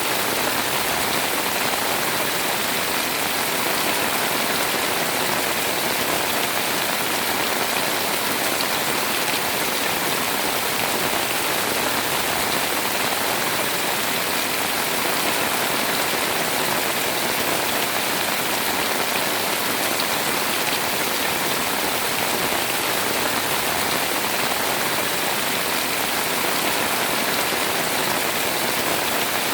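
Heavy rain pouring steadily, a constant even hiss with no let-up.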